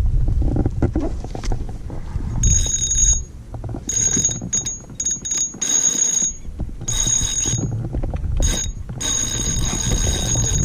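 Fishing reel being cranked in short spells, a high steady whirring whine each time it turns, over a constant low rumble.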